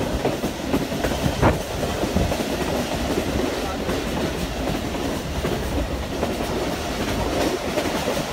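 A passenger train running along the track, heard from inside a carriage: a steady rumble of wheels and coach, with occasional clacks of wheels over rail joints.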